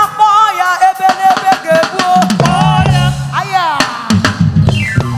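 Live gospel band music: a drum kit with bass drum and snare hits under a held, wavering lead melody that slides up and then down near the end.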